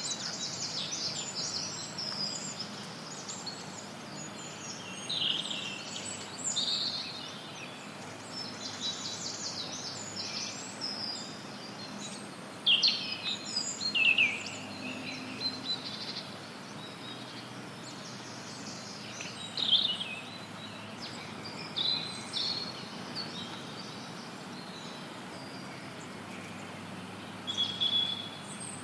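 Several forest songbirds chirping and trilling in short, scattered phrases over a steady hiss of added white noise.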